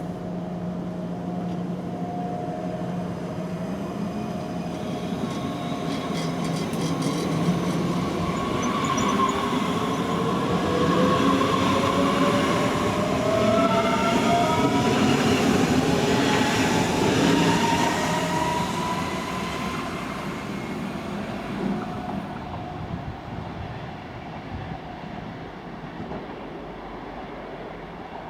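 An electric train runs past, its noise building to a peak and then fading away. Through the middle, a motor whine climbs steadily in pitch as it picks up speed.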